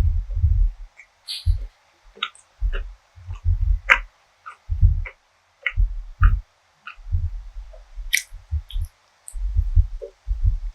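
Close-miked chewing of food: irregular low thuds of chewing with sharp wet mouth clicks and squishes between them.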